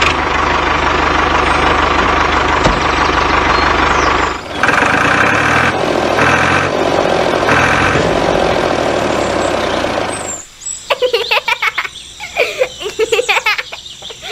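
Tractor engine running loudly for about ten seconds. It dips briefly and changes its sound about four seconds in, then cuts off.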